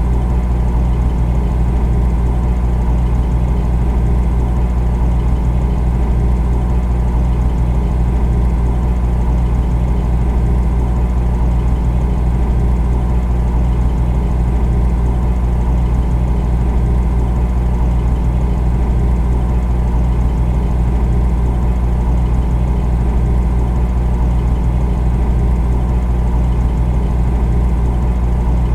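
Refrigerator running: a steady, unvarying low hum.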